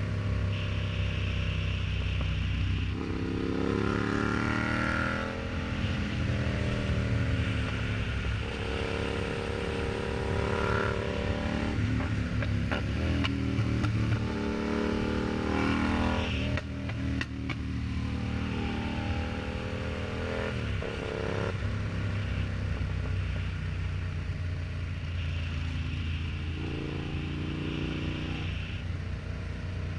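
Yamaha MT-07's 689 cc parallel-twin engine running through an aftermarket exhaust while ridden: several pulls in which the engine pitch rises, then drops back at each gear change, between steadier stretches.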